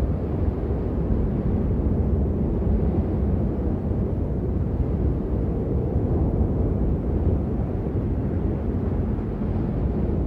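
Steady rain as a dull, low rush, with little hiss and no separate drops.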